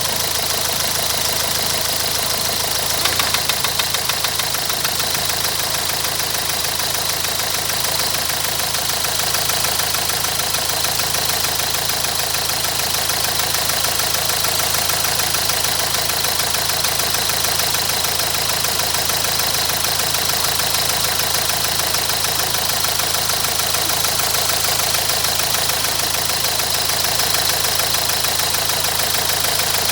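Renault 1.5 dCi K9K four-cylinder diesel idling with a steady rapid clatter and a knock that the owner suspects comes from a Delphi injector, heard only when the engine is hot. A few louder knocks stand out about three seconds in.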